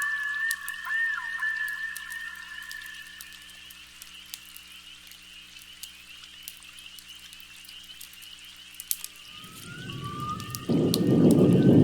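Thunderstorm-and-fireplace ambience: rain with scattered sharp crackles under a steady high chirring chorus, and a wavering whistling tone over the first few seconds. Near the end a low rumbling rush swells up and jumps suddenly louder, a roll of thunder with heavier rain.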